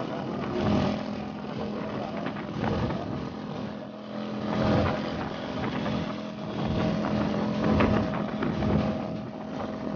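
Motorcycle engine running at a steady speed while riding, its steady hum under a rushing noise that swells and fades.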